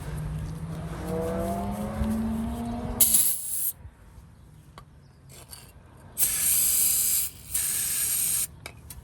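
Pressurised spray hissing in three short bursts, cleaning a removed, very dirty crankshaft position sensor. It is preceded by a hum that rises steadily in pitch over the first three seconds.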